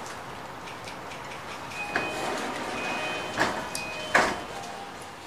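JR East E233-8000 series electric train coming to a stop at a station: steady running noise, then a thin high brake squeal from about two seconds in, with a few sharp knocks as it halts, the loudest near the end.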